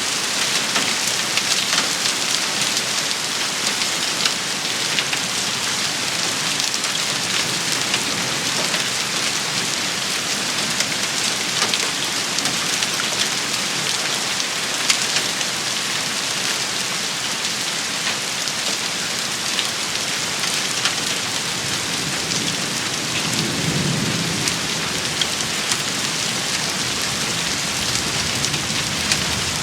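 Steady heavy rain shower pattering on hard surfaces, with scattered sharp ticks of individual drops. A brief low rumble rises and fades about three-quarters of the way through.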